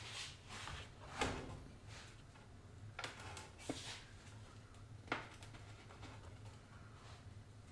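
A few light knocks and clicks of parts being handled and test-fitted, about four in all, spaced a second or two apart, over a faint steady low hum.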